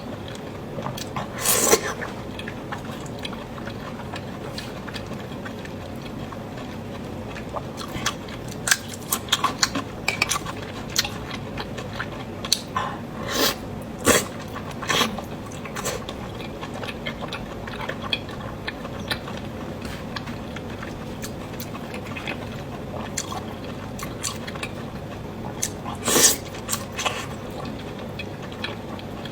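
Close-miked chewing of lamb intestine noodles, with irregular wet mouth clicks and a few louder bites scattered through.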